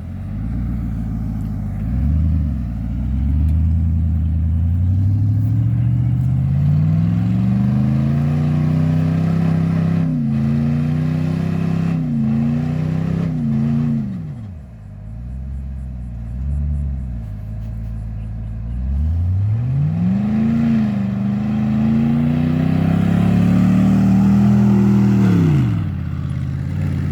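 Lifted pickup truck's engine pulling under throttle, its pitch climbing steadily for several seconds, then a few quick rev blips before it drops back to low revs about halfway. It climbs again for several seconds and falls off near the end.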